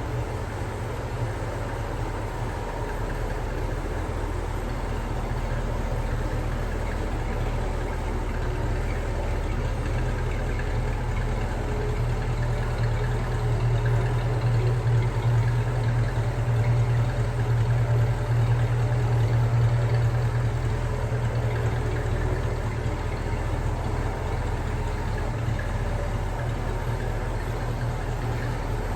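1968 Ford Mustang's V8 engine idling steadily with a low, even exhaust note; it grows louder for several seconds around the middle without any change in pitch.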